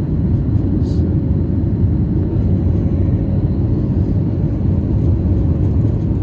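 Airliner cabin noise in the climb after takeoff: a steady low rumble of jet engines and rushing air, with a faint steady hum and a brief tick about a second in.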